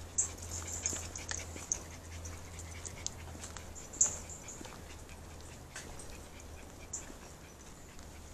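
Birds chirping at a lakeside: short, high calls at irregular intervals, the strongest about four seconds in, over a low steady hum.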